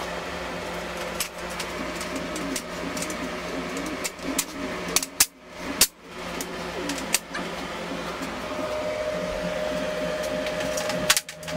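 Laser-cut quarter-inch steel plates clinking and knocking as side panels are slotted into a tab-and-slot welding table frame, with a few sharp metal clinks about four to six seconds in and again near the end. A steady hum runs underneath.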